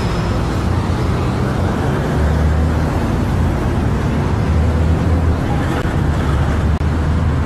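A car driving: steady engine hum and road noise.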